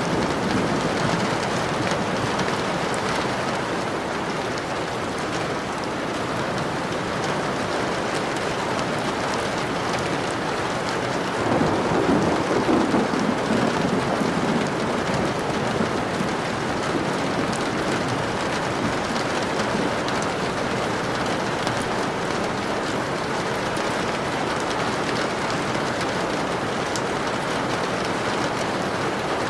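Steady rain falling, with a rumble of thunder about twelve seconds in.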